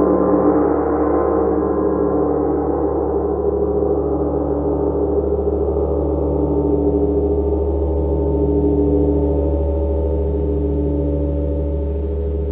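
Large gong ringing in a dense, sustained wash of overlapping tones over a deep hum. Its higher overtones slowly fade while the low tones hold steady.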